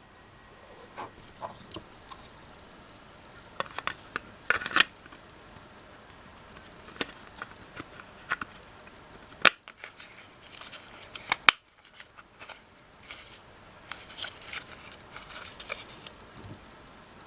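Hands working on the parts of a cordless stick vacuum cleaner during its repair: scattered small clicks, taps and scrapes of plastic and metal parts. About halfway through come two sharp clicks, two seconds apart.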